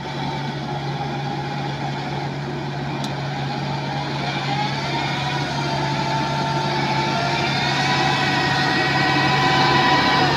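A heavy machine's engine running steadily, growing gradually louder.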